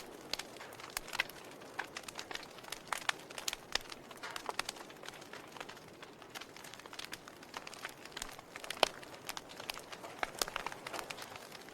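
Log fire in a fireplace crackling: irregular sharp pops and snaps over a soft steady hiss, with one louder pop about nine seconds in.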